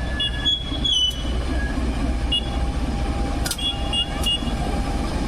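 Passenger train running along the track with a steady low rumble. Brief high-pitched squeals and a few sharp clicks cut in over it.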